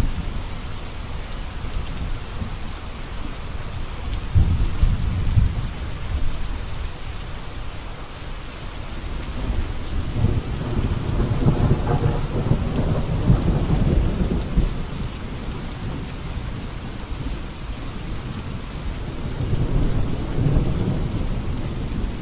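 Steady rain with thunder rumbling in three rolls: a short one about four seconds in, a longer one from about ten to fifteen seconds, and another near the end.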